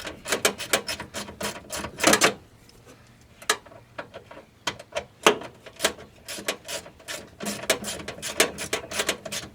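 Socket ratchet with an extension clicking in quick runs, about five or six clicks a second, as 8mm screws are worked loose, with a break of about a second a little past the two-second mark.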